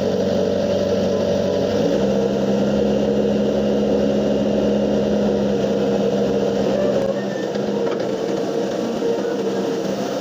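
Excavator diesel engine running under load. Its pitch steps up about two seconds in, and the deep low end falls away near seven seconds.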